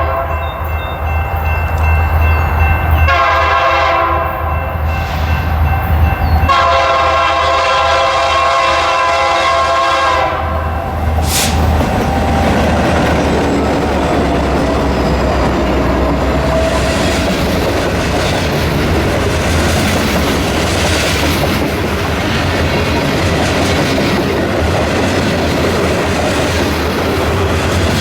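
Metra commuter train's diesel locomotive sounding its multi-note horn: a short blast, then a long one of about seven seconds. The train then passes close by with a steady rumble of engine and wheels clacking over the rail joints.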